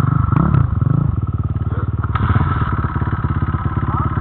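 Dirt bike engines running close by; after a wavering first second, one settles into a steady, even idle.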